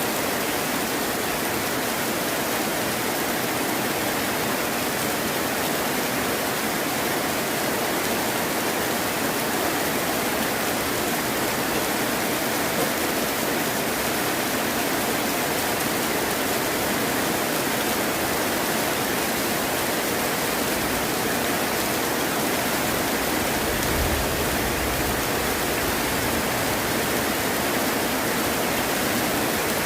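Heavy rain falling in a steady hiss, with a brief low rumble about three-quarters of the way through.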